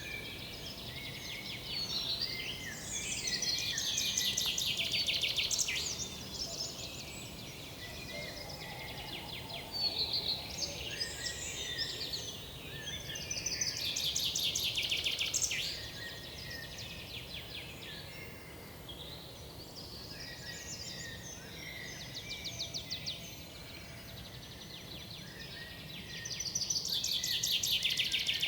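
Several woodland birds singing and calling, with three loud bouts of rapid trilling song about ten seconds apart and scattered chirps in between, over a low steady background noise.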